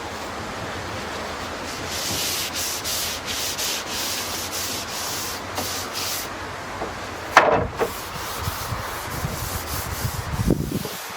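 Paintbrush bristles scrubbing oil into bare larch planks in repeated strokes, with a short sharp knock a little past the middle.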